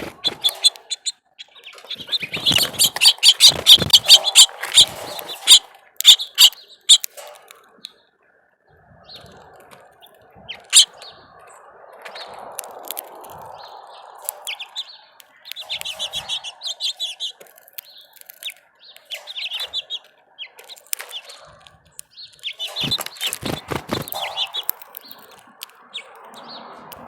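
Small songbirds chirping rapidly at a bird feeder in several bursts, loudest in the first few seconds and again near the end, with many sharp taps and clicks mixed in.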